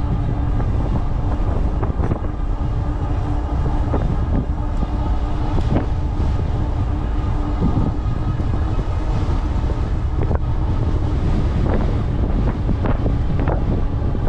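Strong wind buffeting the microphone of a moving e-bike, a steady low rush with a steady hum running under it and scattered knocks from the ride.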